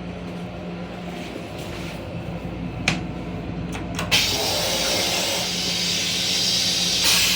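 Steady low hum of an M7 railcar, with two sharp clicks; right after the second, about four seconds in, water starts rushing loudly in the car's restroom.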